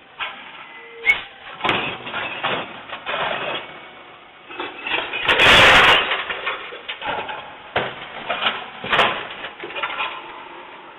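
Garbage truck at work: irregular bangs and clatter of refuse and metal, with one loud burst of noise lasting about a second, about five seconds in.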